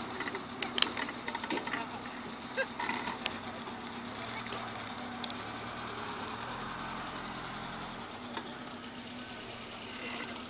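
Off-road trial 4x4's engine running at low revs as the car creeps through a muddy section, with a few sharp clicks and knocks near the start.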